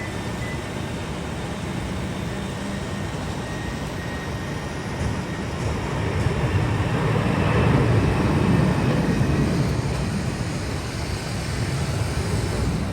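Jet airliner passing, its engine noise swelling to a peak about eight seconds in and then easing off.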